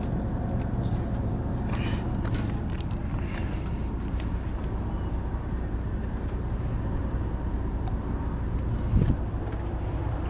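Diesel semi-truck engine idling steadily while it boosts a dead truck's batteries through jumper cables. A single thump comes about nine seconds in.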